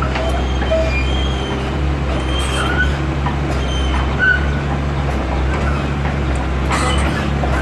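Backhoe's diesel engine running steadily as it is loaded onto a truck, with brief high squeaks now and then.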